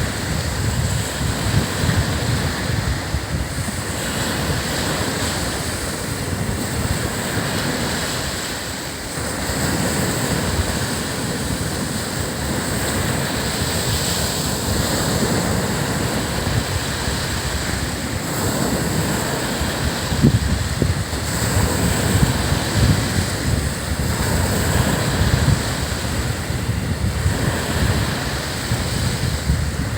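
Surf breaking and washing up a sandy beach in a continuous wash, with gusts of wind buffeting the microphone.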